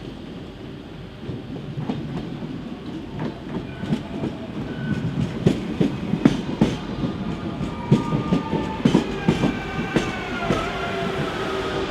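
A CP Series 2200 electric multiple unit passing. Its wheels clack over the rail joints, louder as it comes closer. Near the end a whine of several tones joins in and falls in pitch.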